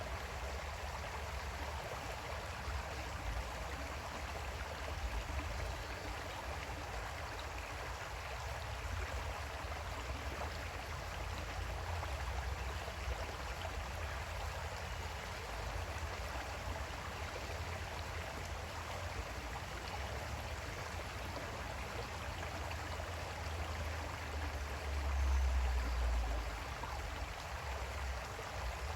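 Creek water flowing steadily. A deep low rumble swells for a second or two near the end.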